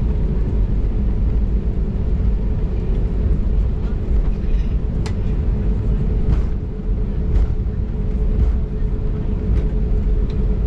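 Cabin noise of an Airbus A320neo taxiing after landing: a steady low rumble with a constant hum, and a few light clicks or rattles.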